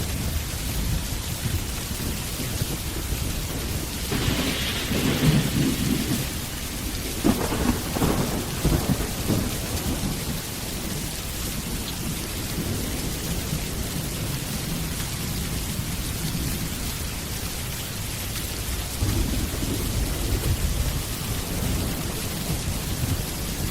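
Steady rain falling with rolling thunder. Louder rumbles and cracks come about five and eight seconds in, with another rumble near the end.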